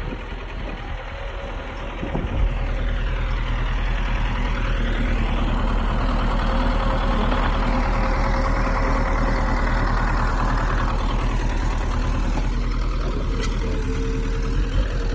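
Heavy diesel engine of earth-moving machinery running steadily. It gets louder about two seconds in, with a rush of mechanical noise over the middle part.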